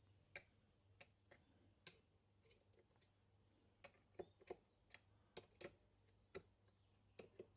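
Faint, irregular light clicks and taps, about a dozen, from the small metal parts of a model beam steam engine being handled before it is run. There is a pause of about two seconds in the middle.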